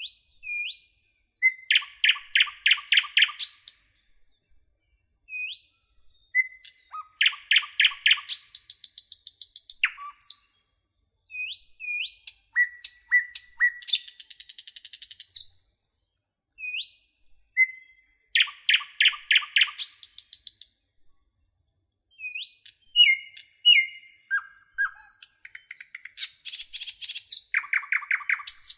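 A songbird singing, repeating a song of rapid chirped notes several times, with short rising whistled notes between the songs.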